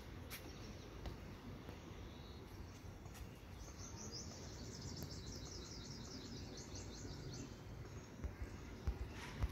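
A bird's rapid, high-pitched chirping trill lasting about four seconds in the middle, over a low steady outdoor rumble. A few soft knocks come near the end.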